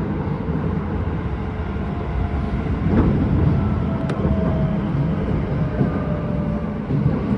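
Keisei 3000-series electric train running at speed, heard inside the carriage: a steady low rumble of wheels on rail with a faint whine. There are a couple of sharp knocks about three and four seconds in.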